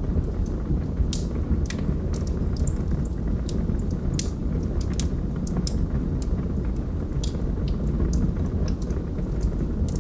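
Log fire burning in a fireplace: a steady low rumble of flames with frequent sharp crackles and pops from the wood, irregularly spaced, several a second.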